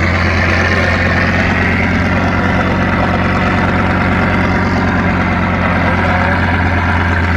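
A large engine running steadily at a constant speed, a loud deep hum with no change in pitch.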